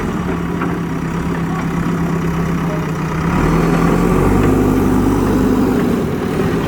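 Heavy diesel engine running steadily, then working harder and louder from about three and a half seconds in.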